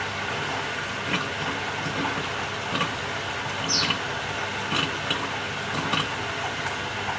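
Samsung 6.5 kg top-loading washing machine running mid-cycle: a steady rushing noise with a short knock or click about every second or so, and a brief squeak about four seconds in.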